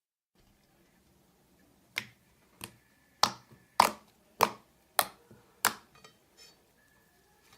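Glossy slime being pressed and squeezed, making seven sharp clicking pops about every half second, then a few fainter ones.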